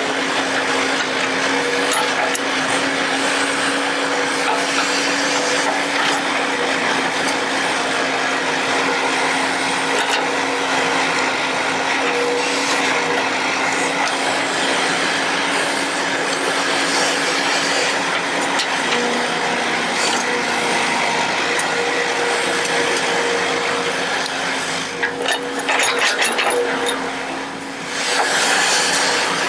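Excavator running steadily with a constant hum and whine, the pitch dropping slightly about two-thirds of the way through. Near the end the sound dips briefly, with some clattering.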